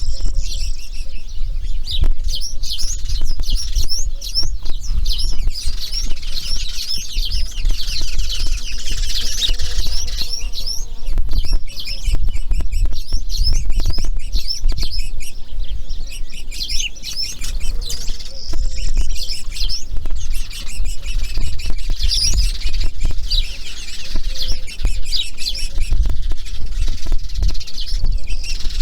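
Birds chirping rapidly and almost without pause, over a steady low rumble, with a short lower-pitched call about ten seconds in.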